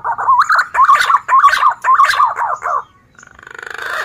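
Male green pigeon (punai daun) singing its whistled call: a quick run of about eight warbling notes lasting nearly three seconds. Near the end comes a rising, raspy rattle.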